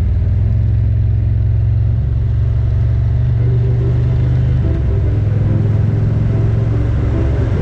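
2023 Indian Roadmaster's Thunderstroke 116 V-twin engine running steadily while under way, with a deep, low note. Its pitch rises slightly about two seconds in and eases back about five seconds in.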